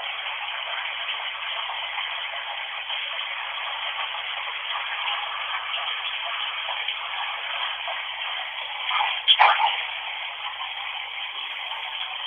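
Bath taps running, a steady rushing hiss of water heard through a narrow-band phone recording, with a brief louder burst about nine seconds in.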